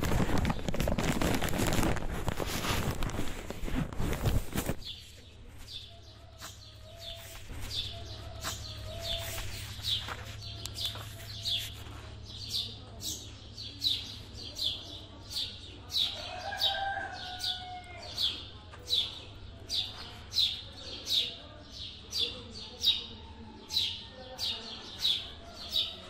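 A loud rush of noise for the first five seconds or so, then a small songbird repeating a short, high, falling chirp roughly every two-thirds of a second, with softer bird calls lower down.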